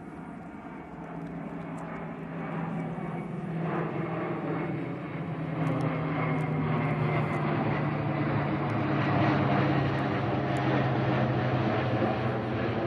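Four-engine turboprop C-130 Hercules transport aircraft droning steadily with a low hum, growing louder over the first several seconds.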